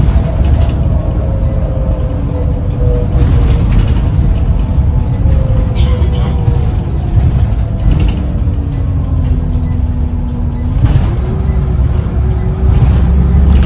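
Scania Omnicity single-deck bus running, with a deep engine rumble and a drivetrain whine that falls slowly in pitch. About eleven seconds in, the whine jumps up and starts rising again as the engine picks up.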